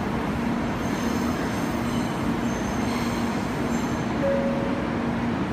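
Steady running noise of a stopped N700-series Shinkansen's onboard equipment, heard at the platform, with a low hum that comes and goes.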